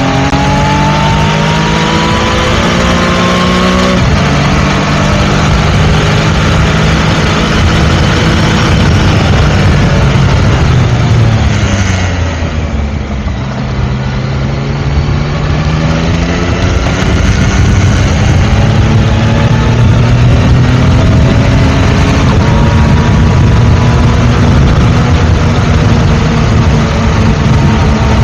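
Yamaha Tracer 900 GT's 847 cc inline-three engine running under way. The engine note rises and holds, falls and softens about twelve seconds in as the bike slows, then climbs again and holds at a higher, steady pitch for the last few seconds.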